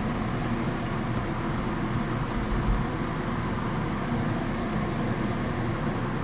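Chicken cutlets frying in a pan of hot oil, a steady sizzle with a few faint pops.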